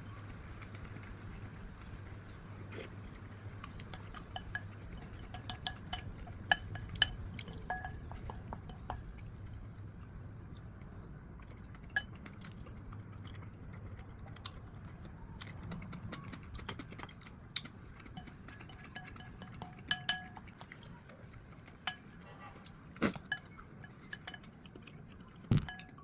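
Tableware clinking now and then: scattered light clicks and taps of utensils on dishes, some ringing briefly, over a steady low hum.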